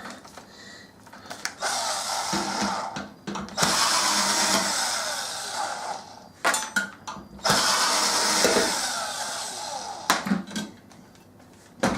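A small electric power tool motor running in three bursts of a few seconds each, with short clicks and handling knocks between them.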